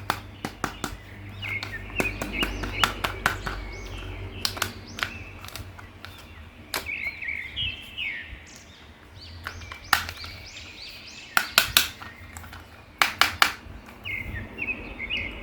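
Irregular sharp clicks and taps, typical of plastic toys and packaging being handled, with short bird chirps in the background.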